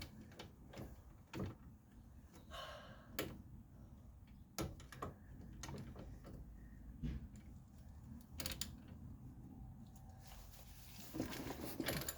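Scattered light clicks and knocks of hand tools and metal parts being handled and fitted, with a brief scrape about two and a half seconds in and more rustling and clatter near the end.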